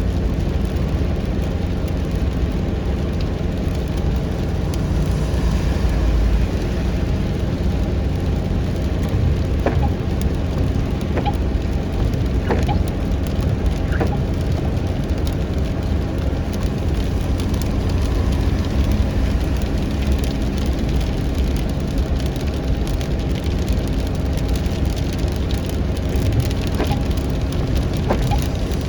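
A car driving in heavy rain: a steady low rumble of road and engine noise with rain on the car, and a few faint ticks here and there.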